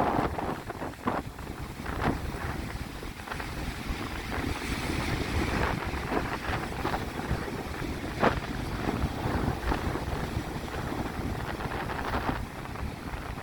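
Strong onshore wind buffeting the microphone with a gusting rumble, over the steady wash of sea waves breaking and splashing.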